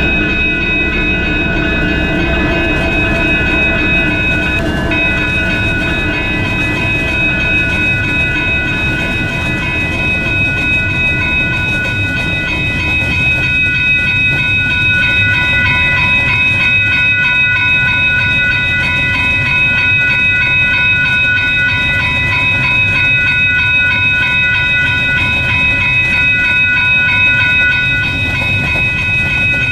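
Train rolling past, a steady rumble of wheels and cars with high, steady ringing tones held over it.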